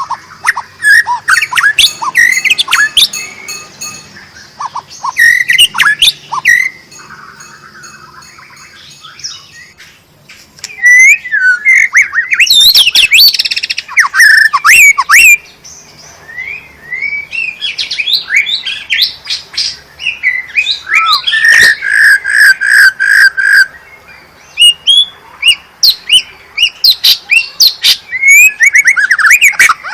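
White-rumped shama (murai batu) singing in loud, rapid, varied phrases of whistles, sweeps and harsh chattering notes, with short pauses between bursts. About two-thirds of the way through comes a run of some eight evenly repeated notes on one pitch.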